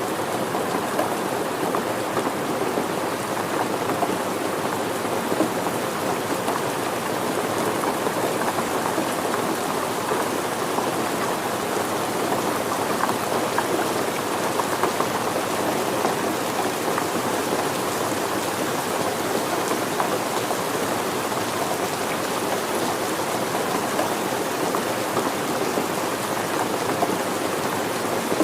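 Steady rain falling and pattering on surfaces, a dense, even hiss of many small drops with no break or change.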